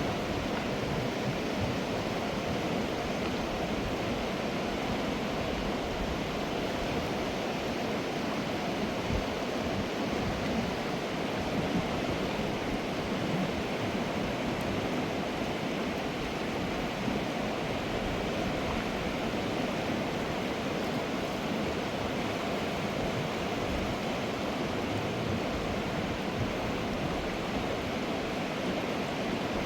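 Fast mountain river rushing and churning in a steady roar of water.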